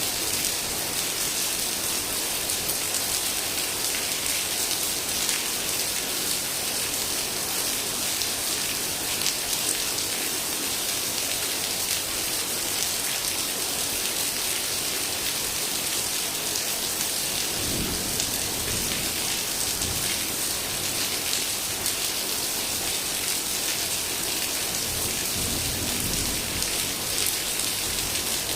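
Heavy rain pouring steadily in a thunderstorm, a dense even hiss. Low rolls of thunder rumble about two-thirds of the way through and again near the end.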